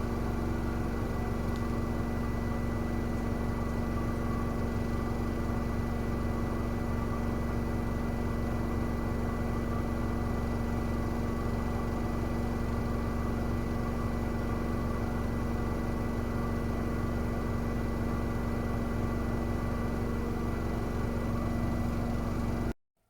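Miele W1 WCA018 washing machine running at a constant speed: a steady hum with a thin high whine above it. The sound cuts off suddenly near the end.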